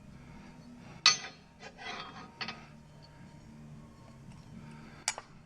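Hand tools and steel bolts clinking against metal while the transmission is bolted up: one sharp clink about a second in, a few lighter taps after it, and another sharp clink near the end, over a steady low hum.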